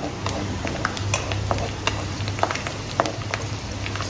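Green chillies and curry leaves frying in a little oil in an aluminium kadai, sizzling with scattered sharp crackles while a wooden spatula stirs them.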